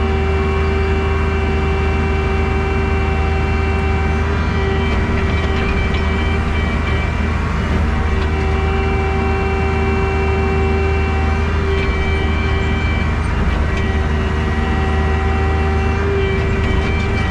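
Compact excavator's diesel engine running steadily under load while digging. A pitched whine comes in for a few seconds at a time, three times over.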